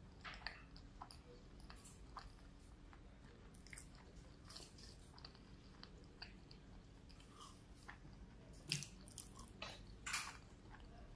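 Close-miked chewing of a fried tortilla-style egg roll: soft crunches and wet mouth clicks scattered throughout, with two louder crunches near the end.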